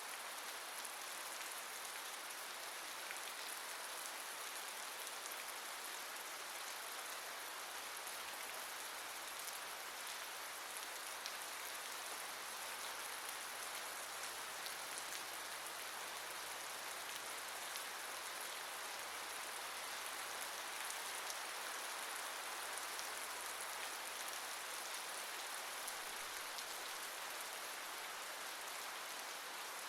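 Steady rain falling: an even hiss of rainfall with fine drop ticks scattered through it, holding at the same level throughout.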